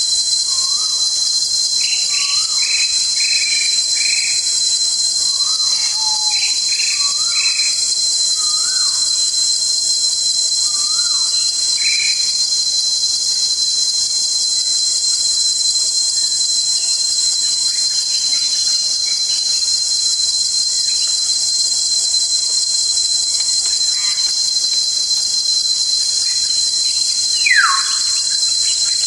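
Steady high-pitched insect chorus holding one constant high tone, with forest birds calling over it. A run of short rising notes about once a second comes in the first half, and one loud falling whistle near the end.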